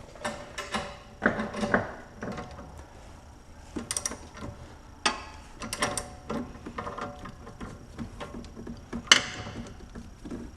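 Hand tools working a 16 mm nut on a sway bar end link: irregular ratchet clicks and metal-on-metal clinks with brief ringing, the sharpest clink about nine seconds in.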